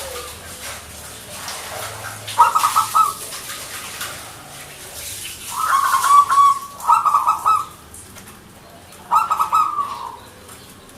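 Zebra dove (perkutut) cooing: three phrases of rapid, stuttering coos, the middle one longest, with a held note before its quick trill.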